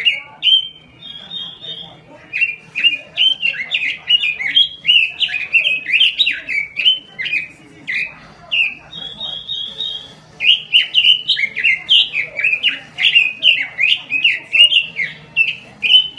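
A quế lâm songbird singing loudly: fast runs of sharp, sweeping whistled notes, with a short buzzy trill about a second in and again around nine seconds, and brief pauses between phrases.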